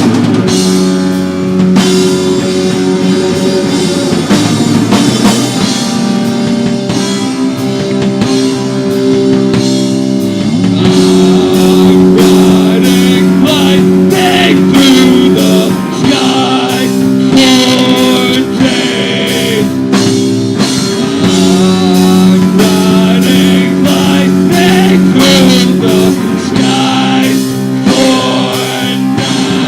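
Live rock band playing: distorted guitar chords held over a drum kit, with singing.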